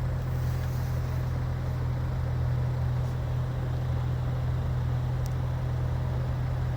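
Steady low vehicle engine hum, even in level throughout, with a faint click about five seconds in.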